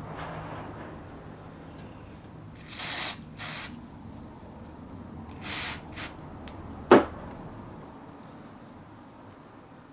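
Short hissing spray bursts from an aerosol can, two pairs of them, followed by one sharp knock about seven seconds in.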